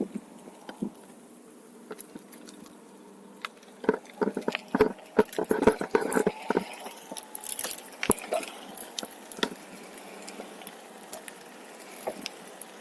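A OneWheel's tire rolling over a rough trail, giving irregular crackles and clicks that come thickest in the middle.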